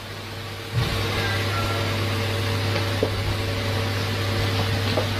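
Steady low hum with a few steady tones over it, growing louder about a second in, with a couple of faint clicks.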